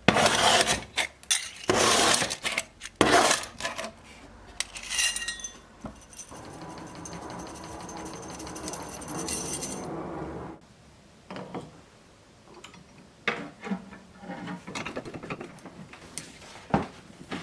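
Small sterling silver pieces, jump rings and metal tools, clinking and jingling against each other in a run of sharp clicks with a brief ringing tone. A steady mechanical noise runs for about four seconds in the middle, followed by scattered light clicks.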